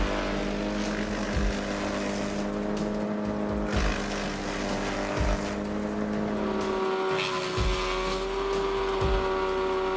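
Wood chipper's engine running with a steady drone, with low thuds every second or two. The pitch steps up about seven seconds in.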